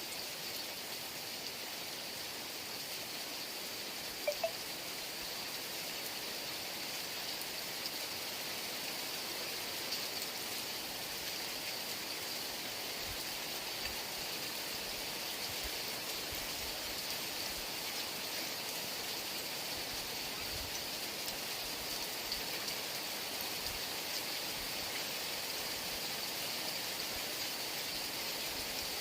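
Steady heavy rain, an even hiss of falling water. A brief sharp sound stands out about four seconds in.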